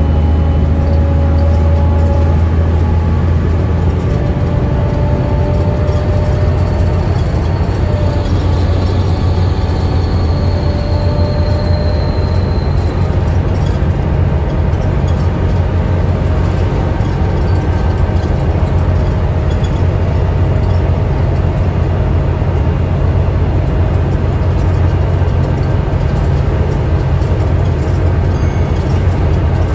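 Volvo B7TL double-decker bus's six-cylinder diesel engine and drivetrain running steadily under way, a deep hum with several steady whining tones above it. A thin high whine rises slightly for a few seconds about a third of the way in.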